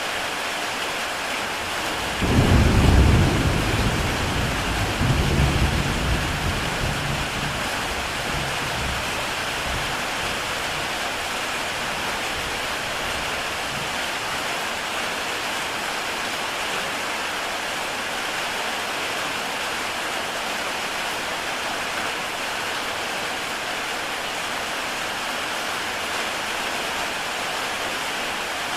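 Heavy rain falling steadily on a tile roof. About two seconds in, a low roll of thunder swells up, rumbles again a couple of seconds later and dies away over several seconds.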